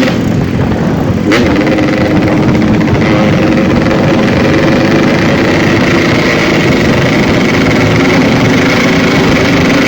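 Yamaha RX-King 135cc two-stroke motorcycle engine idling steadily through a gutted (bobokan) exhaust, loud and even, with one sharp click about a second in.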